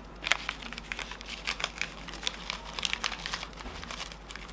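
Shiny plastic sachet of Blend 45 3-in-1 coffee mix crinkling in the hands, with irregular small crackles, as it is handled and worked at with a metal spoon.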